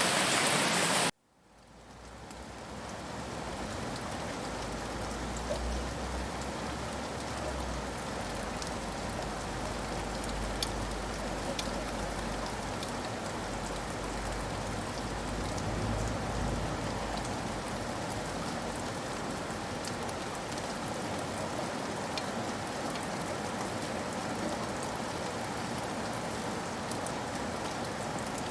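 Steady rain falling, an even hiss with scattered drop ticks. About a second in, a louder, brighter stretch of the sound cuts off abruptly, and the rain fades back in over the next few seconds before holding steady.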